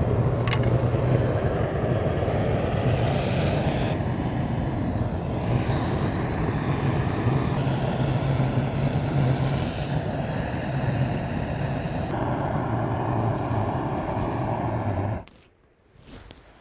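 A motor vehicle engine running steadily with a low hum, cutting off abruptly near the end.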